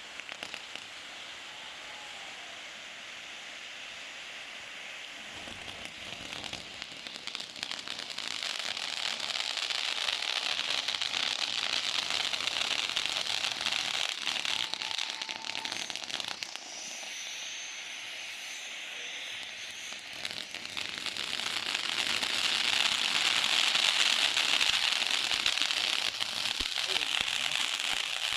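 Fireworks hissing and crackling continuously. The sound swells about eight seconds in, eases off for a few seconds past the middle, then grows loudest near the end.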